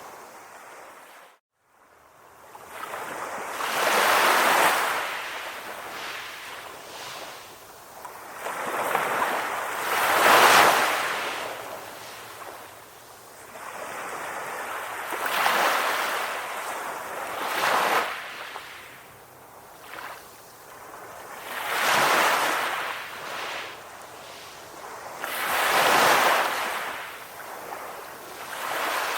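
Calm ocean waves breaking and washing up on the shore, each swell rising and falling every four to six seconds. There is a brief gap of near silence about a second and a half in.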